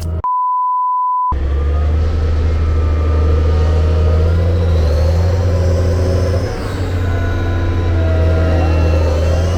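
A pure one-second beep near the start, with all other sound cut out under it. Then a heavy engine runs with a steady deep drone, dipping briefly about six and a half seconds in.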